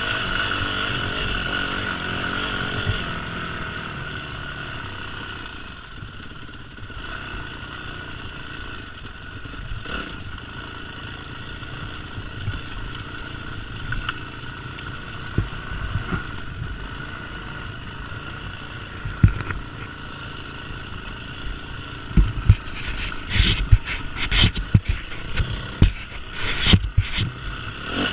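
Yamaha 250 YZF dirt bike's four-stroke single running, louder for the first few seconds and then quieter and steady. A quick run of sharp knocks and thumps comes near the end.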